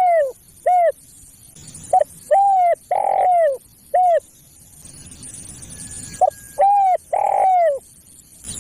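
Spotted dove (tekukur) song: the tail of one phrase, then two full phrases of four coos each. Each phrase is a short note, two longer notes and a short note, and each coo drops in pitch at its end. A faint high hiss runs underneath.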